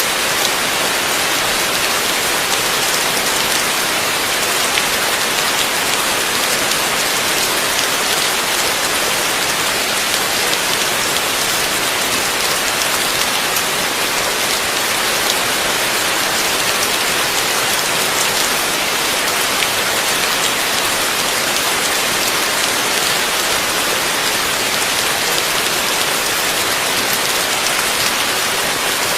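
Heavy rain falling steadily: a dense, even hiss of many drops striking surfaces, with no change in strength.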